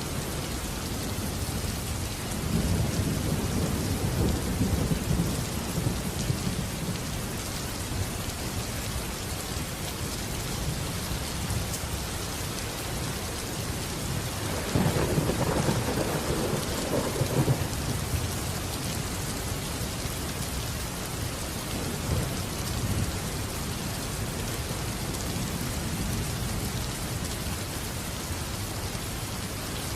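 Steady rain falling with rolls of thunder: a rumble a few seconds in, a louder, longer roll about halfway through, and a fainter one a little later.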